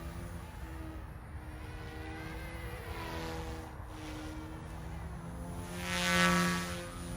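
OMPHOBBY M2 electric RC helicopter in flight: a steady buzzing whine from its rotors and motors. It swells louder for about a second around six seconds in, then eases off.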